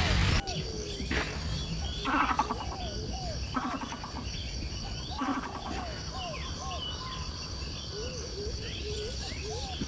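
Wild bird calls: short, upward-hooked whistled notes repeating about once a second, with a few louder, harsher calls in the first half, over a steady high insect drone. Background music cuts off just after the start.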